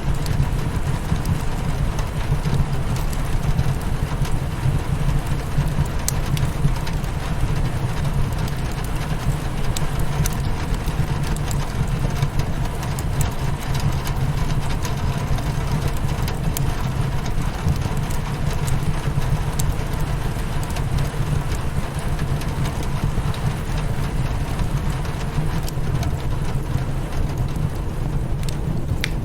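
Steady rain against a window glass, a constant noise with a heavy low rumble, with scattered sharp crackles and pops of a burning wood fire.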